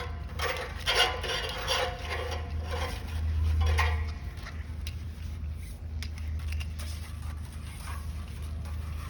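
Light clicks, taps and rubbing from a coiled oxygen line and its fittings being handled, busiest in the first four seconds and then sparse. A steady low hum runs underneath.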